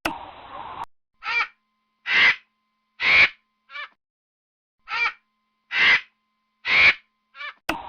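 A crow cawing in two series of four calls, each series three longer caws about a second apart followed by a shorter one.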